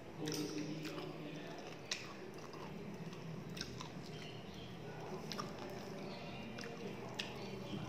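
Close-up chewing of a mouthful of rice and chicken curry, with wet mouth sounds and sharp short clicks every second or two.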